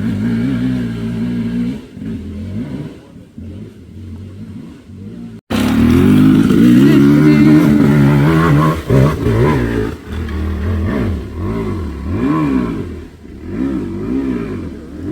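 Dirt bike engine revving, its pitch rising and falling with the throttle. It is fainter for the first few seconds; after a sudden break about five seconds in it is louder and revs up and down over and over.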